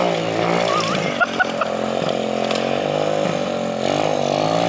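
Small engine of a Chinese minibike running as it is ridden, its pitch dipping and rising again with the throttle.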